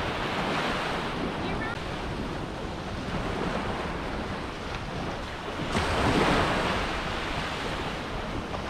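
Surf washing onto the beach, with wind buffeting the microphone. A wave breaks and rushes up louder a little past the middle, then eases back.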